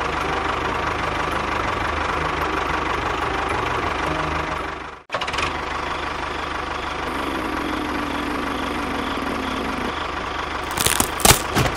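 Tractor engine running steadily with a low, even pulse. It drops out briefly about five seconds in, then runs on with a steadier hum, and a few sharp cracks sound near the end.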